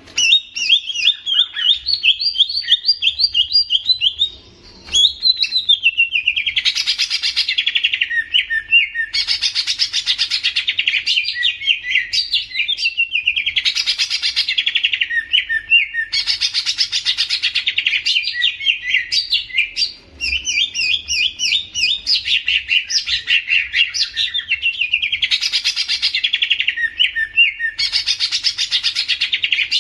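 Green leafbird (cucak ijo) singing on and on in fast, high chirping trills, with a louder, buzzier burst of song about every two and a half seconds and two brief breaks.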